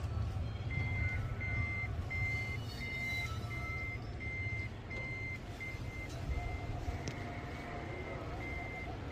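Electronic warning beeper sounding in a steady run of single high beeps, about two a second, over a low machinery rumble.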